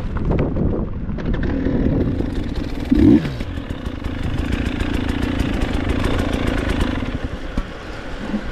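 Dirt bike engine running under load on a trail, with one sharp, loud rev about 3 seconds in whose pitch quickly drops, then running steadily again. Many short clicks and knocks run through it.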